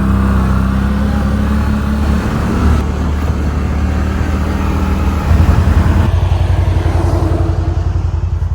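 CFMOTO ATV engine running under way as the quad is ridden, its engine note shifting about five seconds in.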